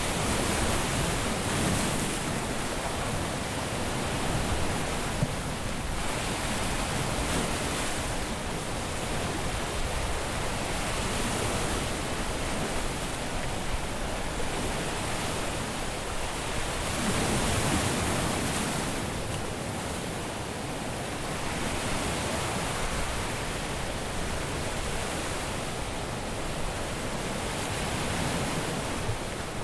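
Surf on a beach: waves breaking and washing up the shore as a steady hiss, swelling now and then, most strongly a little past the middle.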